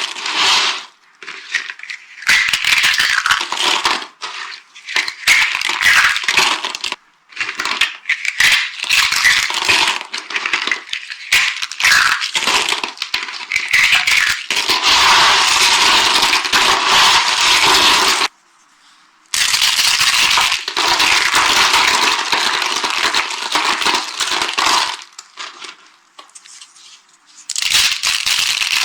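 Dry carved soap shapes being crushed, giving dense crackling crunches in repeated bursts with short pauses between them.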